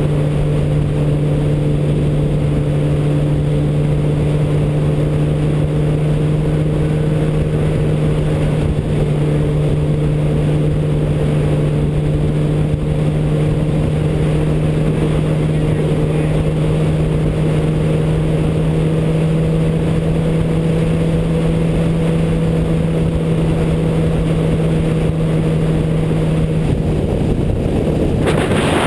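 Vehicle engine droning at steady, unchanging revs over a noisy rush. The engine tone drops away near the end.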